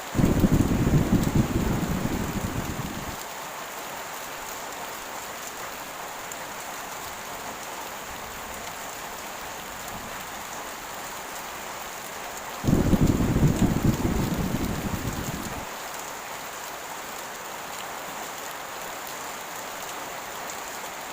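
Steady heavy rain with two rolls of thunder, one at the start and one about halfway through; each rumble comes in suddenly and fades away over about three seconds.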